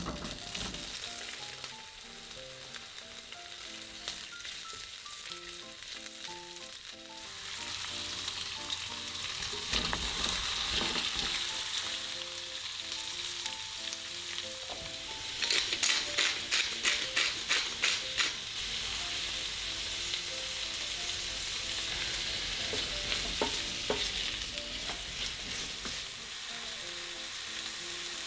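Food sizzling in a hot frying pan, with a quick run of about a dozen stirring or scraping strokes in the pan around the middle. Soft piano music plays underneath.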